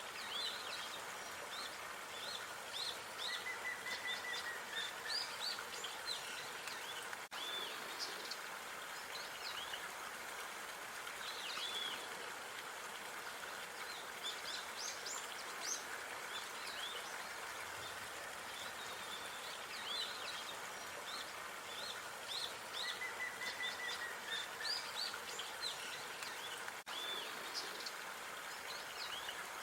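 Small birds chirping and calling repeatedly over a steady background hiss of outdoor park ambience.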